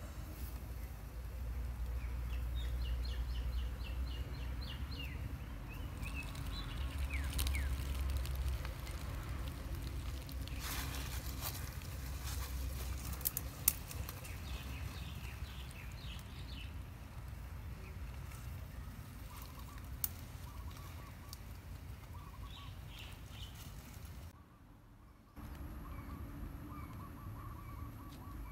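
Birds chirping in runs of quick high calls over a steady low rumble, with a few sharp clicks about halfway through. The sound briefly drops out about three-quarters of the way through.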